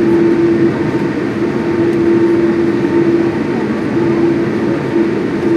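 Boeing 787 engine noise heard from inside the passenger cabin: a loud, steady rumble with a hum that breaks off and comes back several times.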